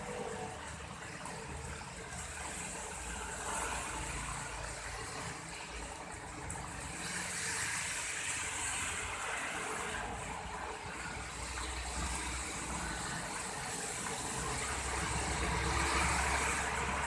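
Steady rain falling, a continuous hiss with a low rumble underneath.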